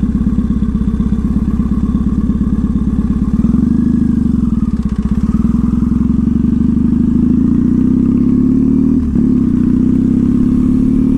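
2014 Triumph Thruxton's parallel-twin engine through a slash-cut TT exhaust, running under way. The engine note shifts about three seconds in, climbs slowly, and dips briefly a little after nine seconds.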